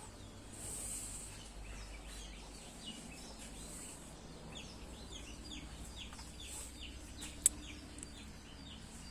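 Birds chirping over and over in short, high, falling notes, with one sharp click near the end.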